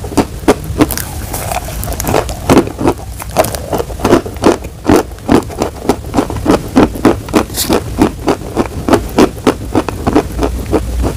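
Close-up crunching of crumbled chalk being chewed, a rapid run of sharp crunches at about three a second.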